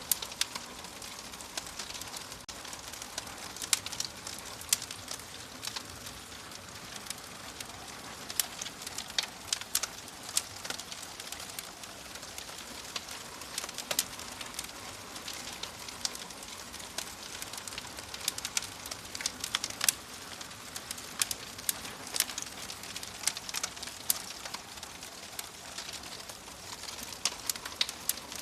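Wood fire burning in a fireplace, crackling with frequent sharp, irregular pops over a steady soft hiss.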